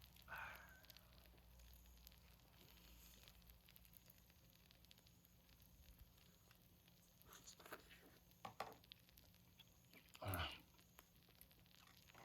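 Mostly near silence, broken by a few brief soft sounds of someone eating: chewing and mouth noises, the most noticeable a little past ten seconds in.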